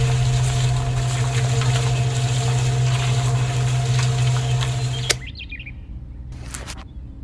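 A machine's motor running steadily with a low hum and a mechanical whirr, which cuts off with a click about five seconds in; fainter mechanical sounds follow.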